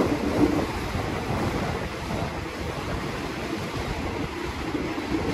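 Passenger train running, heard from on board, with wind buffeting the phone's microphone: a steady rushing rumble with no distinct wheel clicks.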